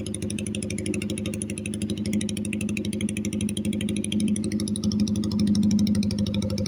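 A 2013 Yamaha Vixion's 150 cc single-cylinder four-stroke engine runs at a steady low speed through an aftermarket SC racing exhaust. It gives an even, rapid exhaust pulse that grows a little louder past the middle.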